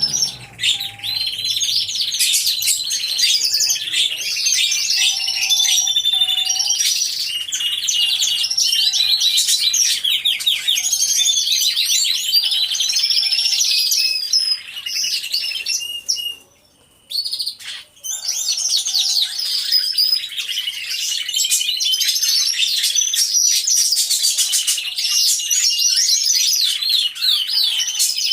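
Many domestic canaries singing together in an aviary: dense, overlapping high-pitched trills and warbles. The song breaks off suddenly for about a second a little past halfway, then resumes.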